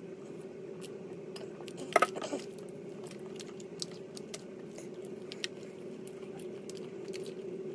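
Close-up chewing and mouth sounds of a person eating: small wet clicks scattered throughout, with one louder short sound about two seconds in. A steady low hum runs underneath.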